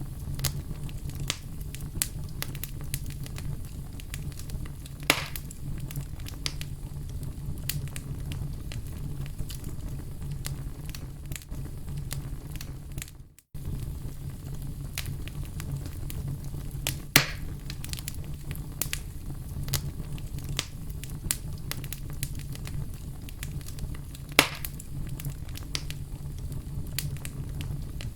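Wood fire crackling, with a steady low rumble of flames under constant small clicks and three louder pops. About halfway through the sound briefly fades out and comes straight back.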